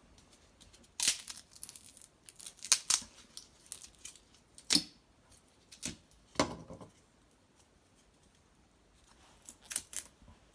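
Dry cedar twigs and bark snapping and tearing in a string of irregular sharp cracks, the loudest about a second in, then a pause before two more near the end.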